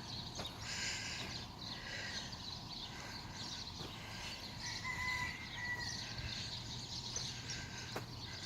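Faint outdoor ambience with small birds chirping here and there, and a short, steady, higher note about five seconds in.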